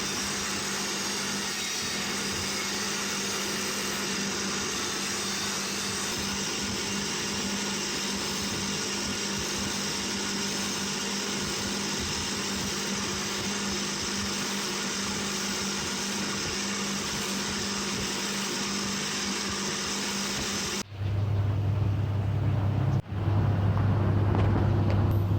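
Electric power tool running steadily with a constant whine over a rough grinding noise. About twenty-one seconds in it cuts abruptly to a louder motor with a strong low hum, which drops out for a moment about two seconds later and then runs on.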